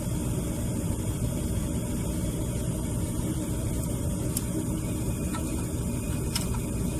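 Steady low rumble of a gas furnace running after repair, with two faint ticks about four and six seconds in.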